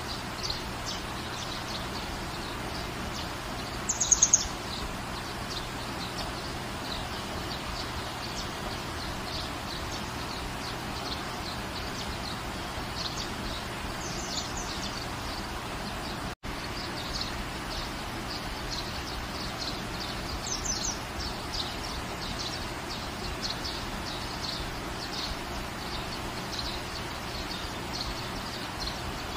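Steady rain falling, with a bird chirping: one short, loud call about four seconds in and a couple of fainter calls later. The sound drops out for an instant near the middle.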